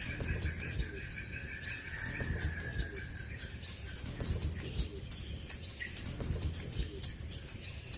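Crimson sunbird calling: a fast, even series of high, thin chips, about four a second.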